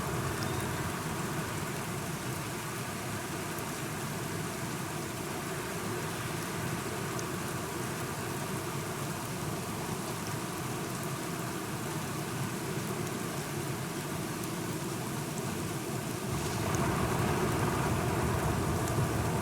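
Steady rain falling, with a deeper rumble swelling in near the end.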